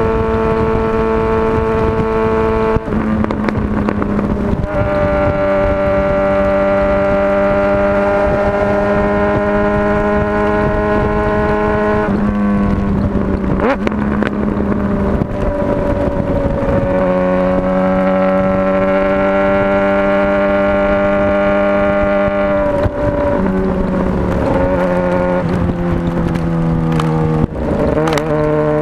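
Motorcycle engine running at a steady speed, its note holding for several seconds at a time, with brief breaks and shifts in pitch about five times, mostly stepping lower.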